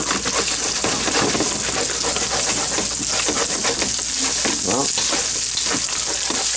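Spam frying in hot oil in a pan, a steady sizzle mixed with the scrapes and clicks of stirring as the pieces brown.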